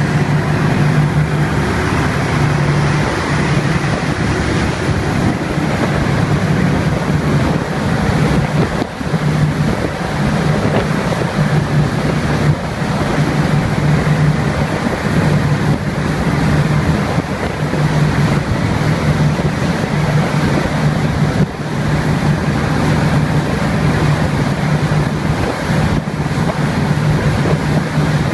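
72-foot catamaran running at about 30 knots: a steady engine drone over a loud, continuous rushing noise.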